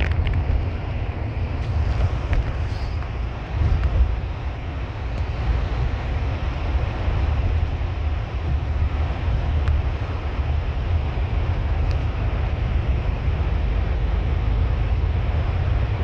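Steady engine and road rumble heard from inside a bus on the move, deep and continuous with a hiss of tyre and wind noise above it.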